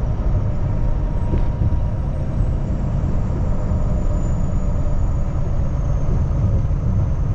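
Steady engine and road rumble inside a Kenworth T680 semi-truck's cab while driving.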